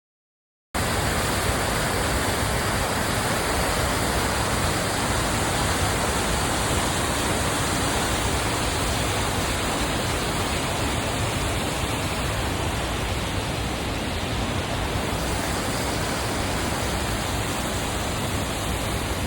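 Waterfall rushing: a steady, even roar of falling water that starts suddenly about a second in and cuts off abruptly at the end.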